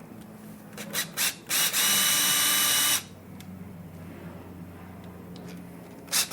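Makita cordless drill spinning a Torx bit to back out screws: two quick blips of the trigger, then a steady run of about a second and a half, then another short blip near the end.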